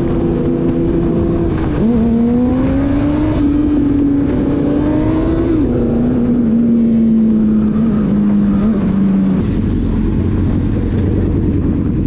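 A vehicle engine at highway speed over steady road and wind noise. Its note drops sharply about two seconds in, climbs again, drops near the middle, then eases down and fades out about nine seconds in, leaving only road rumble.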